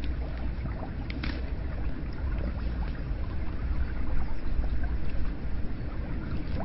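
Hot spring water pouring steadily into a bath: a constant rushing splash with small drips and trickles through it, and one brief sharper tick about a second in.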